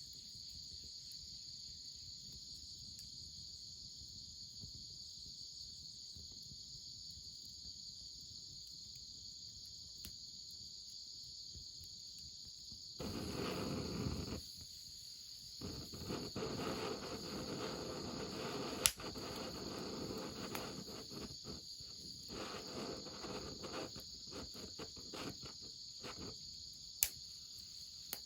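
Crickets chirring in a steady, high chorus. About halfway through, stretches of rustling noise come and go, and two sharp clicks stand out, one in the middle and one near the end.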